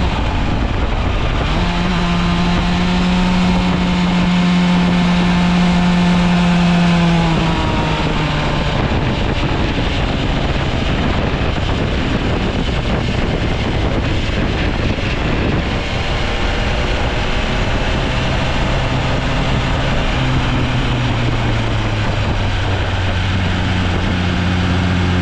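BMW S1000RR inline-four superbike engine at full song, heard onboard with wind rushing over the microphone. About seven seconds in the pitch drops as the bike brakes and shifts down from fourth to third for a slow corner, leaving mostly wind and a lower engine note. Near the end the engine picks up again, accelerating out in third.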